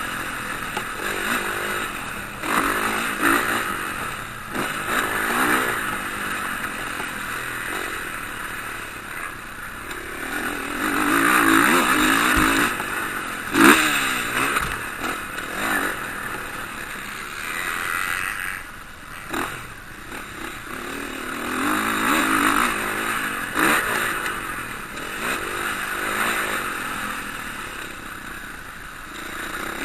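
Several motocross bikes racing, their engines revving up and falling back again and again as they pass, in repeated swells of loudness. A sharp knock about 14 seconds in.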